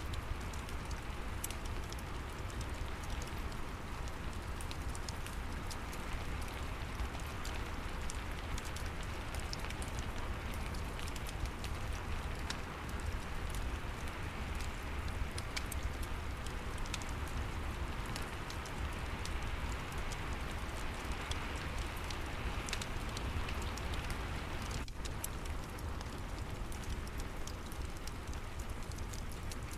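Steady rain mixed with a wood fire crackling in a fireplace: many small sharp pops scattered over an even rain hiss.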